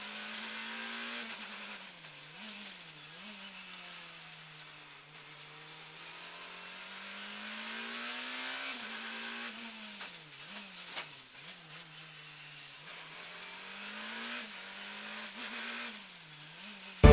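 Rally car's engine heard from inside the cockpit, its pitch climbing under acceleration and dropping sharply several times as the driver lifts and changes gear.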